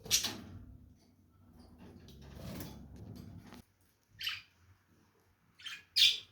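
Lovebirds calling with short, sharp squawks, three near the end, the last the loudest. Before them, a loud burst of noise at the very start and a stretch of softer rustling.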